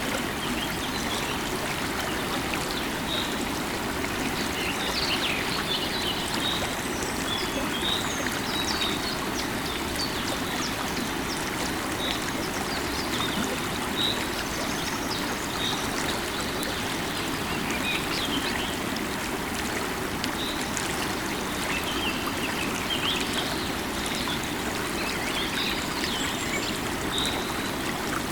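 Steady rush of a river's running water, with birds chirping now and then in short, high calls.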